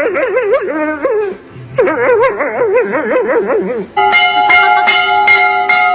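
A high, wavering voice-like wail with a fast, wide wobble in pitch, broken by a short pause, then about four seconds in a bell starts ringing, struck about three times a second.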